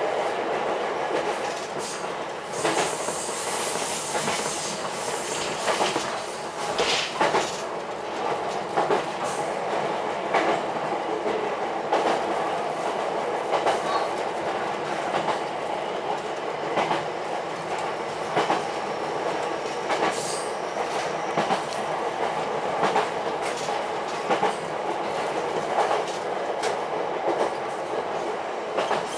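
Ichibata Electric Railway 7000-series electric railcar running along the line, heard from inside the car: a steady running noise with repeated sharp clicks as the wheels pass over rail joints.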